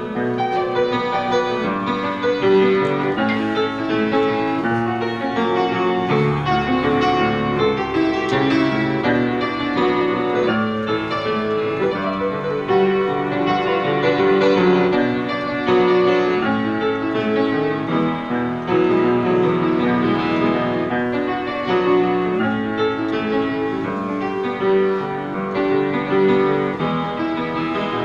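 Solo piano playing a continuous piece, many sustained notes and chords.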